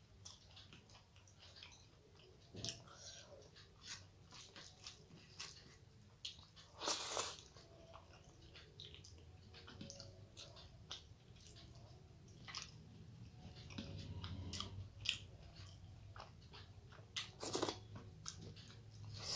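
A person chewing mouthfuls of rice and curry close to the microphone: many short wet smacks and clicks, with a louder burst about seven seconds in and another near the end.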